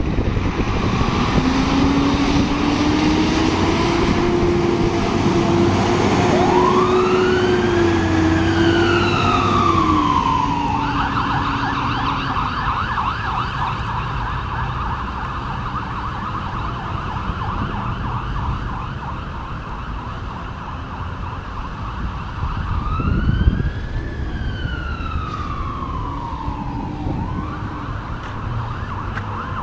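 Fire engine's siren sounding while responding: a slow wail rises and falls, switches to a fast yelp for about twelve seconds, then wails and yelps again near the end. A lower steady tone holds through the first ten seconds, over the truck's running engine.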